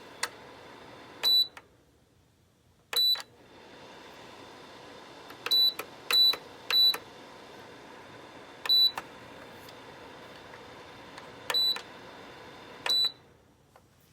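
Lasko ceramic tower heater's control panel giving eight short, high beeps as its buttons are pressed, over the steady whir of its fan. The fan stops after the first beep, starts again with the second, and stops for good after the last beep near the end: the heater is switched off, on and off again.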